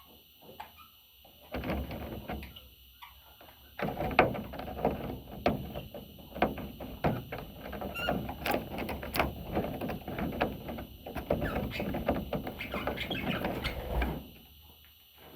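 Budgie scratching and clicking, a busy run of small sharp clicks from about four seconds in until about fourteen.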